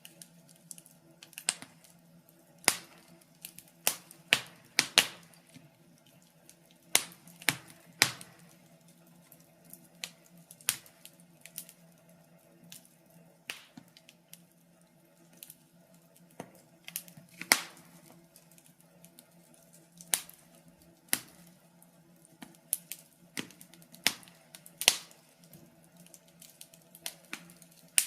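Fireplace wood fire crackling: irregular sharp pops and snaps, some louder than others, over a faint steady hum.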